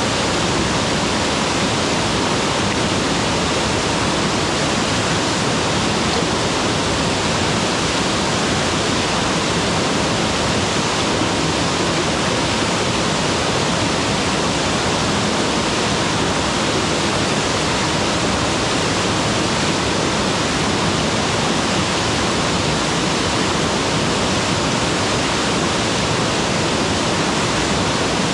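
Mountain waterfall pouring steadily, a loud, even rush of falling water without any break or change.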